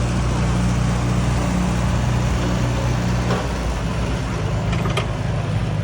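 Motorcycle engine of a modified four-wheeler running steadily during a tractor pull, its note shifting about three seconds in.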